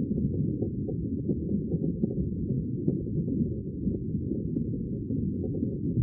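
Sea water rushing steadily, deep and muffled with nothing high in it, and a few faint ticks.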